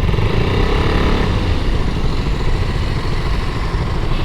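KTM RC 200's single-cylinder engine running steadily as the motorcycle rides slowly through traffic.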